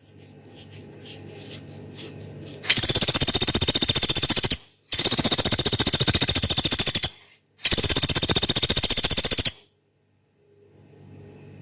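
Pelatuk beras, a small pygmy woodpecker, giving three long, harsh, rapid rattling trills of about two seconds each, high-pitched and rattling at an even fast rate, separated by short pauses. A faint low hum sits under the quiet stretches at the start and end.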